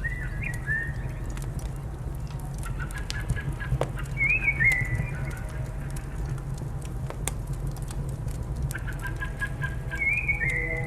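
Wood fire crackling with sharp pops over a steady low rumble, while a bird calls three times: short falling calls at the start, about four seconds in and near the end, each led in by a quick run of fainter notes.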